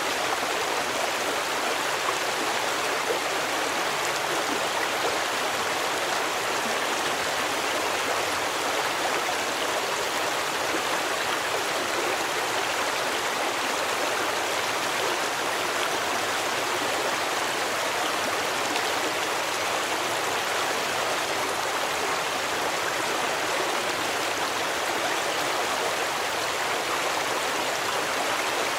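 Stream water running and splashing in a steady, even rush with no pauses.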